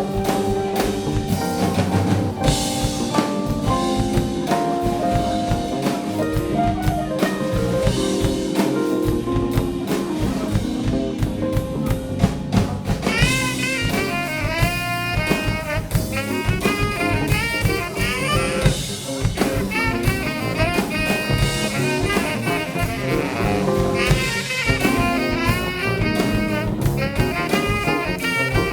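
Live jazz band playing: drum kit, piano, bass and saxophone. A higher melodic line comes in about halfway through.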